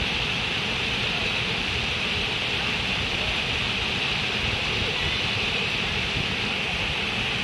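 Steady rush of running water, an even hiss with no surges or breaks.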